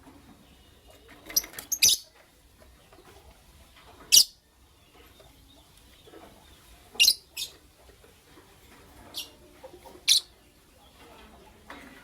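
Pet lovebirds giving short, sharp, high-pitched chirps, about eight of them scattered irregularly a second or more apart.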